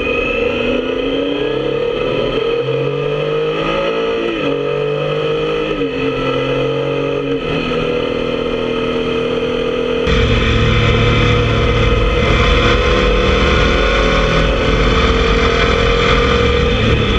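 Motorcycle engine pulling through the gears: its pitch climbs and drops back at each upshift, about every two seconds, then holds steady at cruising speed. From about ten seconds in, a heavy low rumble of wind noise on the microphone joins it.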